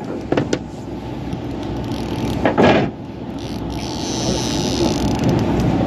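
Fishing boat's engine running steadily under wind and sea noise, with a few clicks near the start, a short louder rustle about two and a half seconds in, and a high hiss building from about four seconds in.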